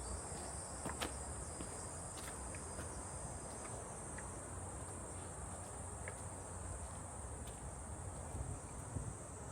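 A steady, high-pitched chorus of summer insects that goes on without a break, with a few faint clicks and scuffs from walking on the trail.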